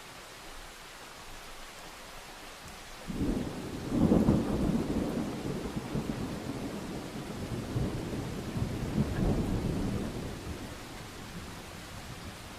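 Thunder rolling under steady rain: a low rumble breaks in about three seconds in, is loudest about a second later, swells again around nine seconds and fades away near the end, with the hiss of rain throughout.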